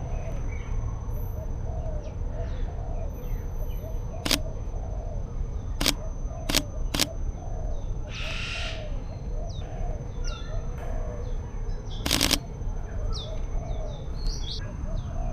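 Sony A7iii camera shutter clicking: single frames spaced apart, with three in quick succession about a third of the way in and another near the three-quarter mark. Under it, birds chirp again and again over a steady low rumble, and a brief hiss comes about halfway through.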